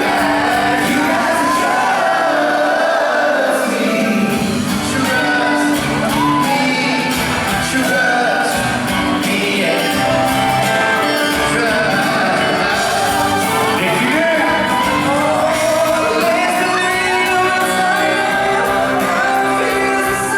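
Pop vocal group singing live over band accompaniment in a large hall, with fans shouting and whooping along.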